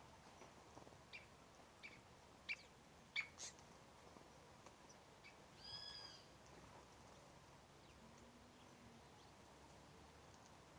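Birds calling faintly: a handful of short, sharp chirps, then one short arched call about six seconds in.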